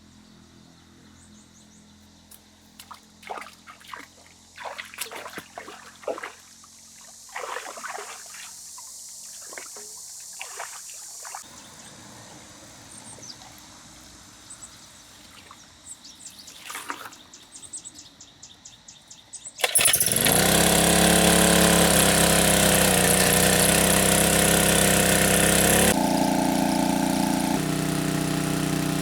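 Light splashing and dripping of water, then about two-thirds of the way in a small engine starts suddenly and runs loudly and steadily, its pitch dipping briefly just after it catches and shifting again near the end.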